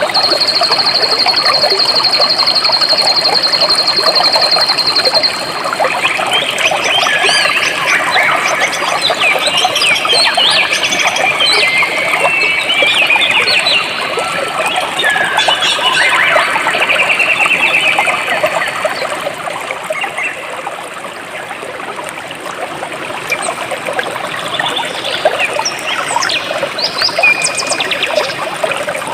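Jungle stream flowing steadily, with many birds chirping over it; a fast, high, even trill runs for the first five seconds or so.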